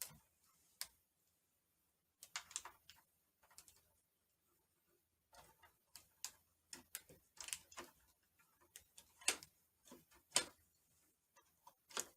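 Small plastic clicks and rattles as the side brushes are pushed and snapped onto the underside of a Shark robot vacuum, irregular at first and coming in busier bunches in the second half.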